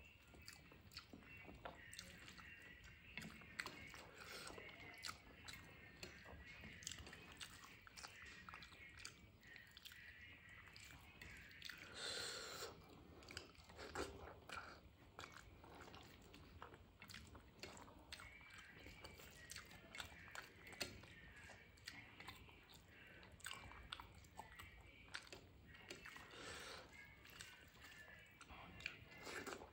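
Quiet close-miked eating sounds of rice with dal and aloo posto eaten by hand: steady chewing with many wet mouth clicks and smacks, and fingers squishing rice on the plate. One louder, longer mouth sound about twelve seconds in.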